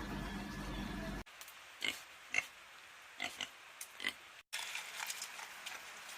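A series of short animal calls, about half a dozen brief sharp sounds spread over a couple of seconds.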